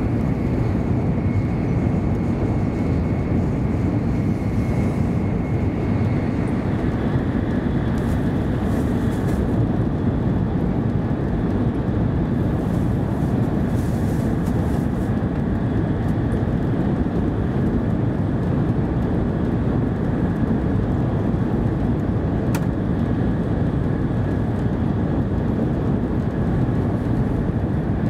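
Interior running noise of a 700 Series Shinkansen at speed: a steady low rumble and rush, with a faint whine that steps down slightly in pitch about six seconds in. There are brief bursts of higher hiss, and a single sharp click about 22 seconds in.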